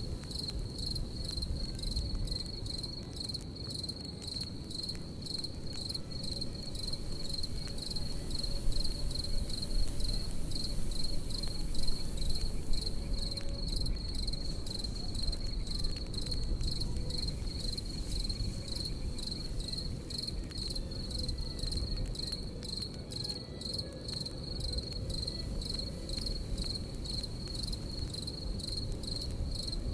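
Crickets chirping in a steady, high-pitched, pulsing trill over the low rustle and crackle of a campfire, with a few louder pops about ten seconds in.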